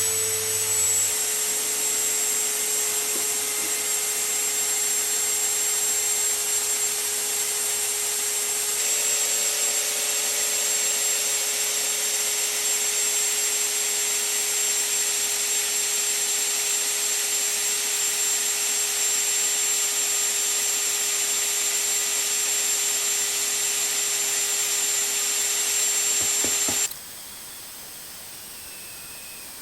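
Electric drill spinning a Pontiac V8's oil pump through a priming tool, pushing the diesel flush through the engine's oil passages: a steady whine that runs without a break, then cuts off suddenly near the end.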